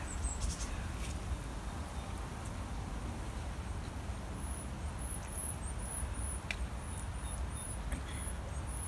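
A small bird's high, thin call notes repeating about twice a second from about halfway through, over a steady low outdoor rumble, with a couple of faint clicks.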